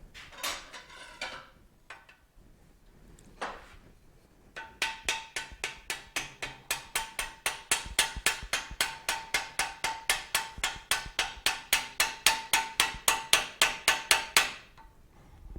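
A hammer striking metal in a steady run of about five blows a second for around ten seconds, growing louder, each blow ringing, while working the swing arm free from a Suzuki TS250 frame. A little handling noise and a single click come before the hammering starts.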